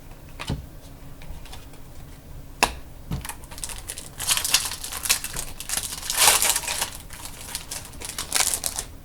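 Trading cards and their packaging being handled: a few sharp clicks in the first few seconds, then a busy run of quick clicking and crinkling from about four seconds in.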